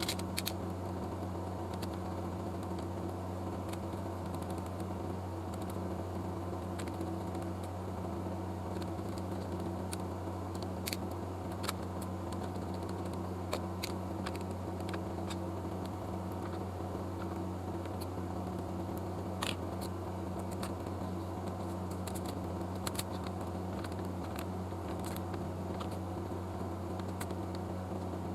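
Steady low electrical hum with a few faint clicks and ticks scattered through it.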